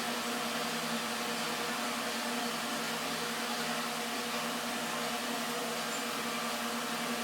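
Steady machine hum with several constant tones and no change in pitch or level, from machinery running in a truck cab.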